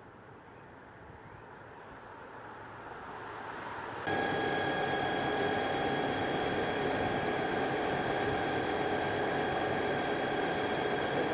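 Vehicle engine noise that grows louder for about four seconds, then jumps abruptly to a louder steady running sound with a steady high whine over it.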